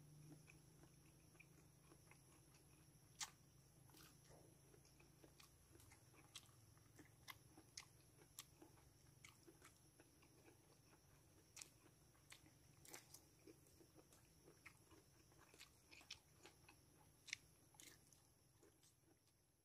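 Faint chewing of soft young-coconut flesh: irregular soft mouth clicks and smacks scattered throughout, a few of them sharper, over a low steady hum.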